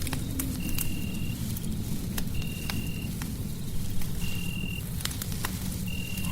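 Crackling fireplace: scattered sharp pops and snaps over a steady low rumble. A short, high, steady note repeats about every second and a half to two seconds.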